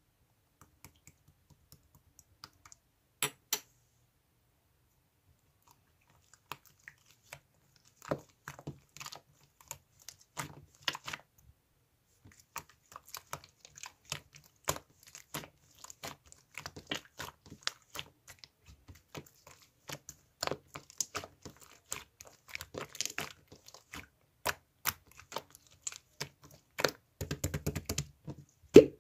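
Close handling noises: irregular small clicks, taps and crinkles, sparse at first and then dense, with a quick flurry of taps near the end.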